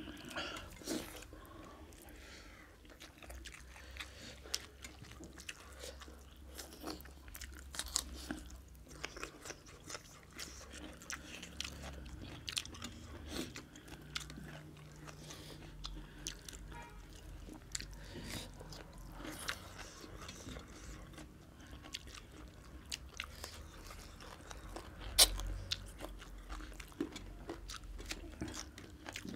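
People eating mutton curry with rice: chewing and mouth noises with many scattered small clicks, one sharper click about 25 seconds in, over a faint low hum.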